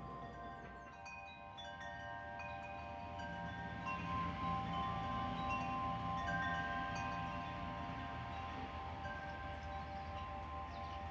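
Chimes tinkling at scattered, irregular pitches, many short ringing notes, over a steady sustained hum of tones; a little louder from about four seconds in.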